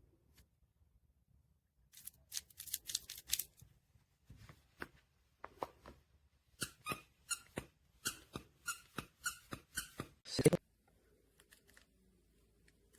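Dog chewing a plush toy with crinkle paper inside: short crackling clicks in quick bursts, settling into about three a second, with one louder crunch near the end.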